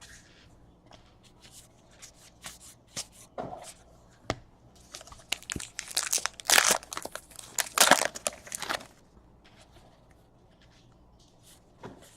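Baseball trading cards being handled and a foil pack wrapper crinkled and torn open: a scatter of soft clicks and rustles, busiest from about five to nine seconds in.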